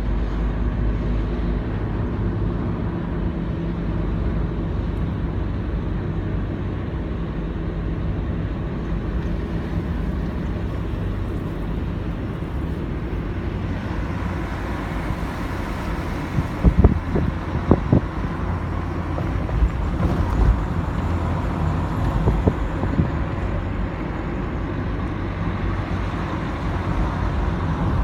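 Steady low rumble of a motor vehicle running, with a few short knocks about two-thirds of the way through.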